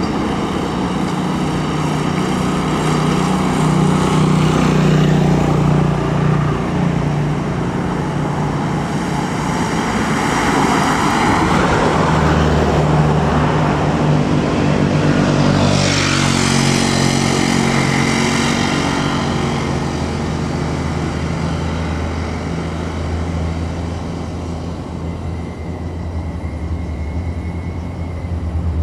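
Diesel intercity coach bus passing by on the road. Its engine and tyre noise build up, the engine note drops as it goes past about halfway through, and then it fades away.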